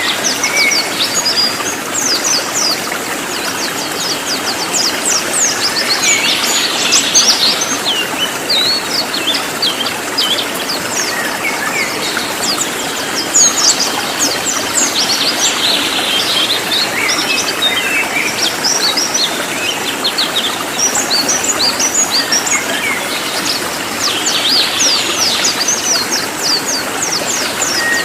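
Cililin songbird singing in fast, dense runs of sharp, high, downward-slurred notes, clusters repeating every few seconds, over a steady hiss.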